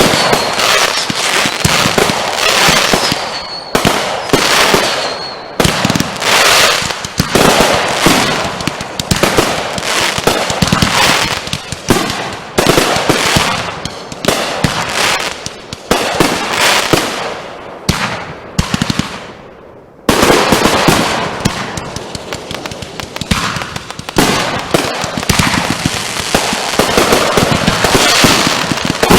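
Consumer fireworks firing in rapid volleys: dense, loud bangs and crackling one after another. The barrage thins out and fades about two-thirds of the way through, then a new volley starts suddenly.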